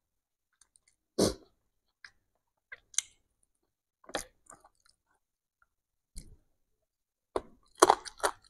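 Close-up chewing and small eating sounds from a person eating rice with his fingers, in short separate bursts a second or more apart that come thicker near the end.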